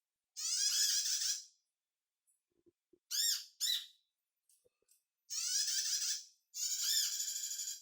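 Bird-calling lure recording for the small nectar-feeding birds sold in Indonesia as 'kolibri': bursts of rapid, high, squeaky chirping, each about a second long. There is one burst near the start, two short ones in the middle and two longer ones near the end, with silence between them.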